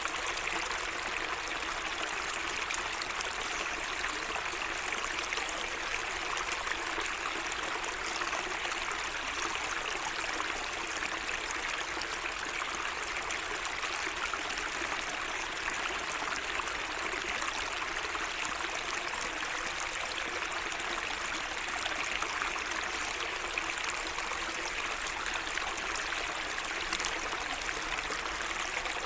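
Small garden waterway flowing and trickling steadily.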